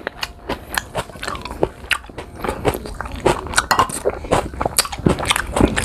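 Chewing and crunching of raw green guava: irregular crisp crunches, several a second, as the firm fruit is bitten and chewed.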